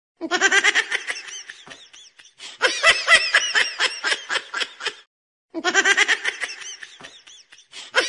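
High-pitched laughter in quick pulses, in runs that stop dead for a moment about five seconds in before starting again.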